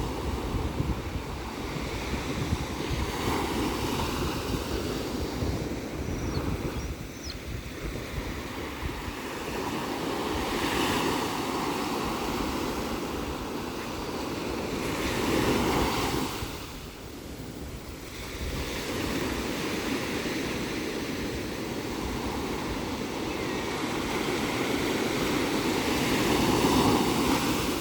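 Ocean surf breaking and washing ashore, a steady rush that swells with each incoming wave every few seconds.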